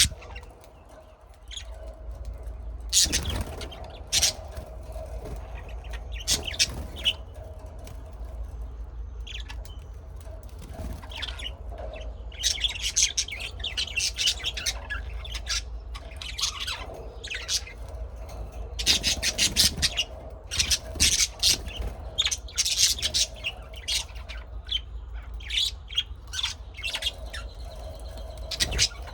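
Several birds chirping and squawking in short, sharp calls that come in clusters, busiest in the middle of the stretch, over a steady low hum.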